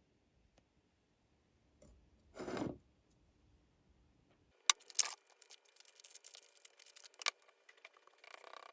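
Small objects being handled: a brief swish, then a run of sharp clicks and rustling.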